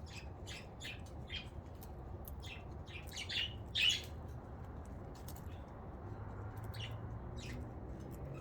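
Pet budgerigars chirping and chattering in quick short calls, loudest about three to four seconds in, then sparser, over a faint low hum.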